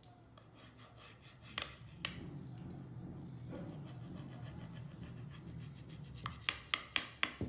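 Pizza being cut on a plate: a rapid, rhythmic scraping of the blade through the crust, about six or seven strokes a second. Near the end come five sharp clicks.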